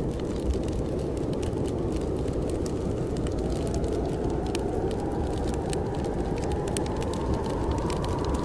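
Blizzard wind blowing steadily against a cabin, with a whistling howl that rises slowly in pitch through the second half, over the quick irregular crackle of a wood fire.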